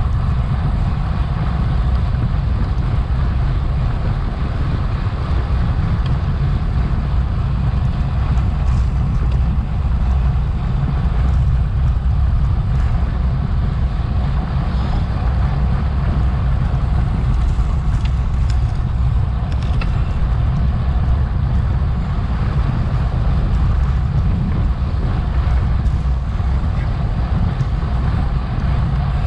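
Wind buffeting an action camera's microphone on a racing bicycle at speed: a loud, steady low rumble.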